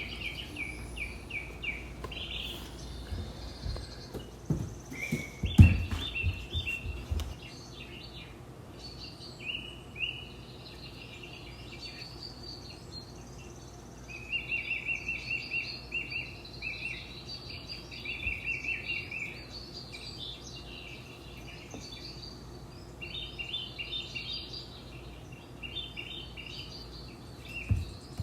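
Small birds chirping and trilling over and over, with a cluster of knocks about four to seven seconds in.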